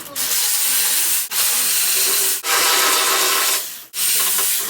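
A loud hissing rush in four bursts of about a second each, broken by brief gaps.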